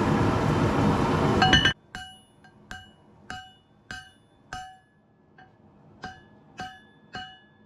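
A loud, steady rushing noise that stops abruptly under two seconds in, then a hammer striking hot steel on an anvil with an uneven rhythm of about one or two blows a second, each blow ringing briefly.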